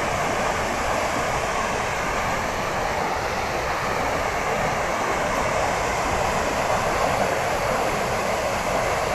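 Athirappilly Falls, a large waterfall on the Chalakudy River, pouring steadily: a continuous, even rush of falling water.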